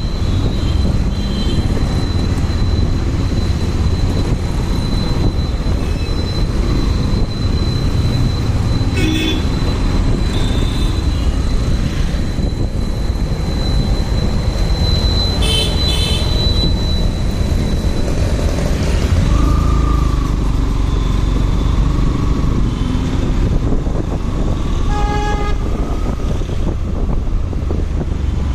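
Steady rumble of road and wind noise while riding a motorcycle in traffic, with short vehicle-horn toots three times: about a third of the way in, around the middle, and near the end.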